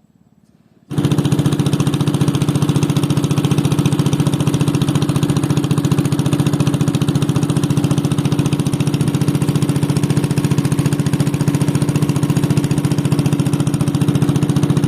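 Engine running steadily at an even speed, starting abruptly about a second in and cutting off suddenly at the end.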